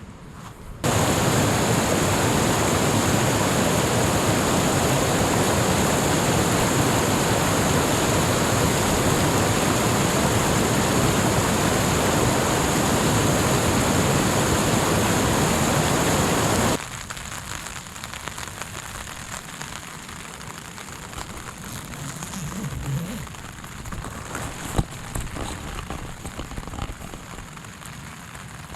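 A loud, even rush of falling water starts suddenly about a second in and cuts off abruptly about two-thirds of the way through. A quieter, steady patter of rain follows, with scattered single drops ticking.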